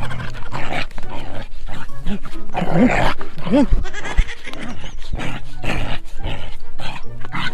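Dog barking a few times in short arched calls.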